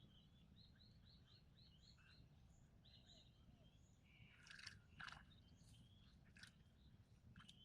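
Faint birdsong: a quick run of small repeated chirps about a second in, then a few short, sharp calls around the middle. A steady low background rumble runs beneath.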